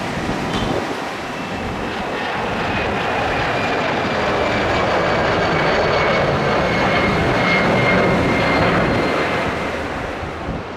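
Airbus A320's jet engines running, a rushing roar with a thin high whine that grows louder to a peak about eight seconds in, then eases off.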